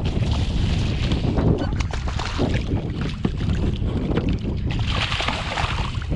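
Wind buffeting an action-camera microphone, a steady low rumble, with scattered small knocks and clicks and a brief hiss about five seconds in.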